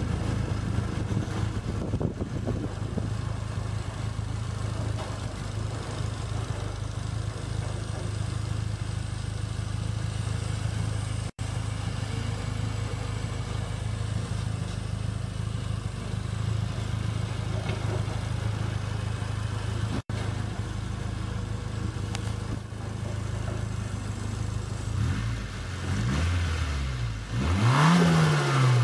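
Nissan Bluebird U12 SSS's SR20DET turbocharged four-cylinder engine idling steadily, then revved in a few quick throttle blips near the end, the pitch rising and falling with each.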